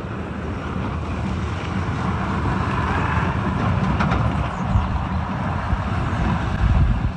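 Heavy all-wheel-drive truck engine running hard under load as it climbs a steep slope, low and steady, with wind noise on the microphone.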